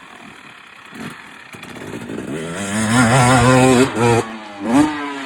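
Dirt bike engine revving up under throttle, growing louder as it accelerates. It backs off just before the four-second mark, then blips sharply again near the end.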